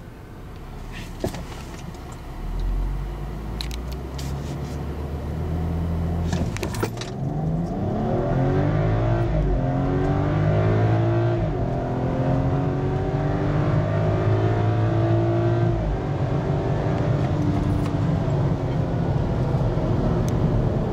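BMW X3 35i's 3.0-litre turbocharged inline-six heard from inside the cabin: a low rumble at the start line with a few clicks, then a full-throttle 0-60 launch about seven seconds in. The engine note climbs steeply and drops back at each upshift, then settles into a steadier, slowly falling note near the end as the throttle eases.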